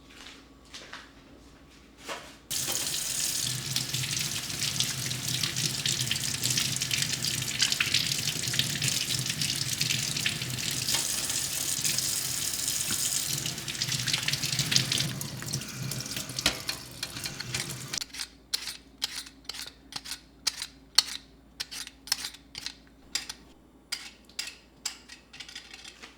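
Kitchen tap running into a sink for about fifteen seconds, starting abruptly a couple of seconds in and stopping suddenly, followed by a run of short clicks and knocks, two or three a second.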